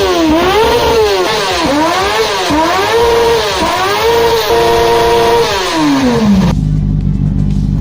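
Old motorcycle engine just fired from a cold start, revved up and down several times in quick throttle blips, held at a steady higher rev for about a second, then dropping to a low idle near the end.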